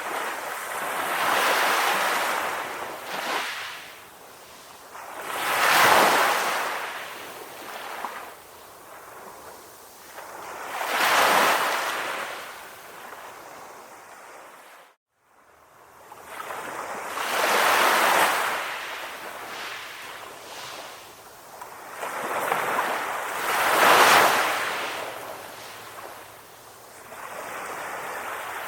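Ocean waves washing in, each wave swelling and fading roughly every five to six seconds. The sound drops out briefly about halfway through.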